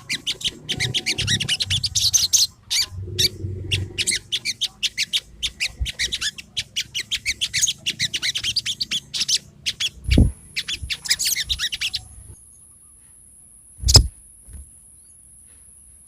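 A sogon singing a fast, dense run of high chirps and trills that stops about twelve seconds in. A steady high-pitched whine starts about ten seconds in and continues, and two sharp knocks come at about ten and fourteen seconds.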